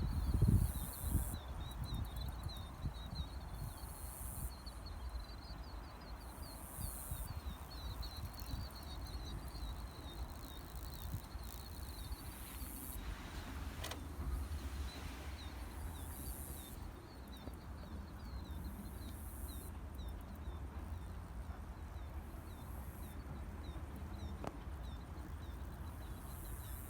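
Open-field ambience: a steady low rumble under a continuous run of small, high chirps, with a higher hiss that swells and fades every few seconds.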